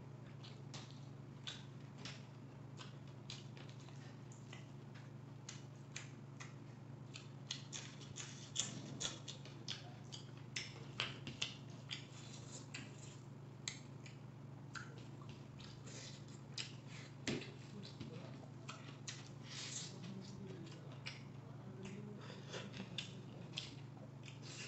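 Close-miked eating sounds: irregular wet smacks and clicks of lips and chewing as a man eats noodles, egg and fried pakora by hand, busier and louder in the second half, over a steady low hum.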